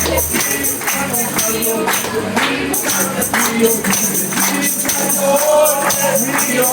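A group singing an upbeat Spanish praise chorus, backed by tambourines jingling in a steady rhythm.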